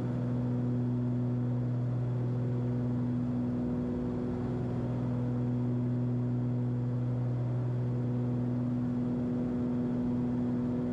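Cessna 340's twin piston engines and propellers droning steadily in flight at climb power.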